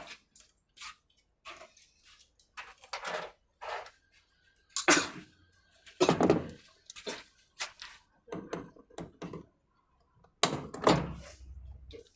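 Hand tools and washing-machine parts being handled: scattered clicks, knocks and clatter, the loudest about five seconds in, around six seconds and near the end.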